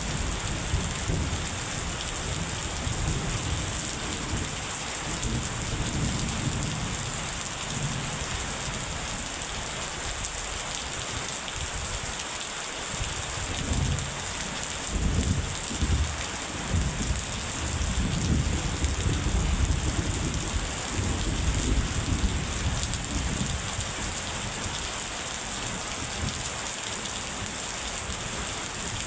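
Steady rain hissing down, with low rumbles of thunder that swell and fade, strongest around the middle.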